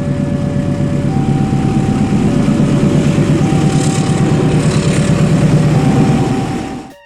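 A train passing close by with a loud, steady rumble. Over it a level-crossing warning alarm sounds, two tones alternating about once a second. Everything cuts off abruptly near the end.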